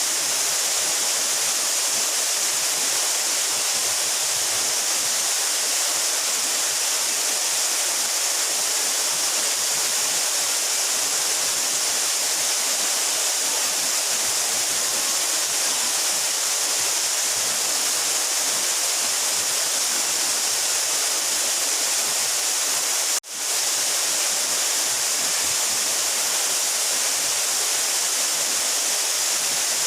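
A 12-metre mountain waterfall crashing steadily in a constant rush of water, with a split-second dropout about three-quarters of the way through.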